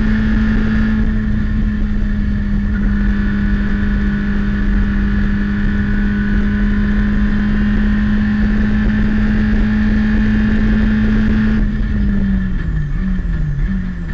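Citroën Saxo race car's four-cylinder engine heard from inside the cabin, held near full revs at a steady, slightly sagging pitch. About twelve seconds in the throttle lifts and the note falls and jumps back up in steps as the car brakes and shifts down through the gears.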